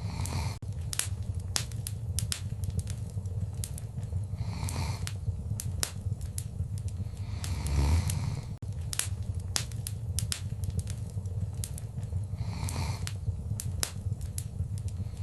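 Wood fire crackling in a fireplace: many sharp pops and snaps over a steady low rumble, with a soft swell of fire noise every few seconds. The same stretch of fire sound repeats about every eight seconds.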